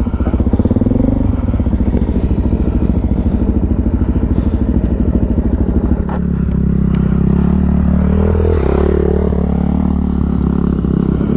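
Motorcycle engine running: a fast, even beat of firing pulses for about six seconds, then a smoother, deeper steady note that dips and rises in pitch once about nine seconds in.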